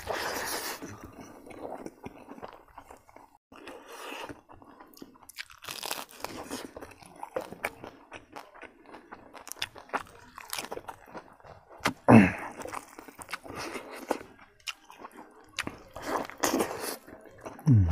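Close-miked chewing and crunching: a man eating omelet curry, rice and dried salted fish by hand, with many short irregular crunches and mouth sounds. A short falling hum from the eater comes about twelve seconds in and again at the very end.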